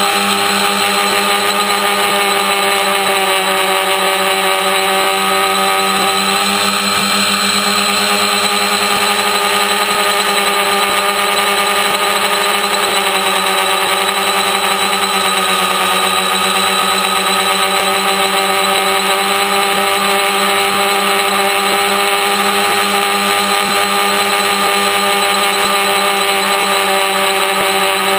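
Electric motors and propellers of a DIY three-motor T-Copter running in flight: a steady multi-tone whine, its pitch wavering slightly as the throttle shifts.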